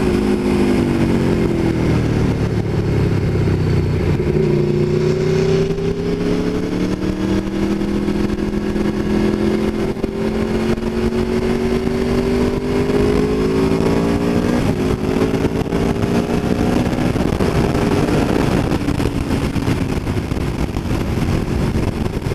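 Aprilia Tuono V4 1100 Factory's 1077 cc V4 engine running under way. Its pitch dips in the first few seconds, then climbs slowly for about ten seconds, with a brief break about two-thirds in before it carries on steadily.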